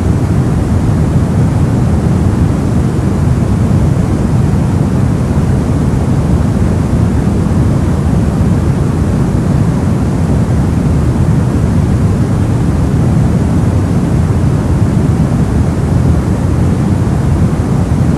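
Steady soft noise with most of its weight low down and little treble, a deep even hush that does not change: a generated sleep noise of the brown or pink kind.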